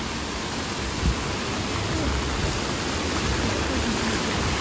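Heavy rain falling steadily in an even hiss, with one brief low thump about a second in.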